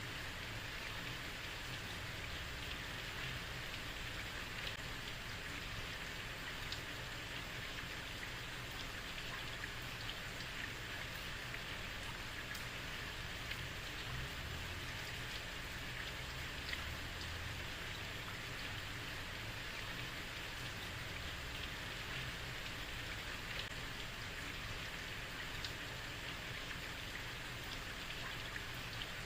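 Steady rain falling on a street, an even hiss with scattered individual drops ticking on hard surfaces and a faint low rumble underneath.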